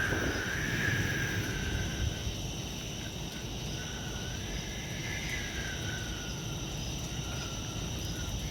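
Night insects chirring steadily, with a thin faint tone that slides down at the start, holds for a couple of seconds, then wavers and comes and goes. There is a low rumbling background.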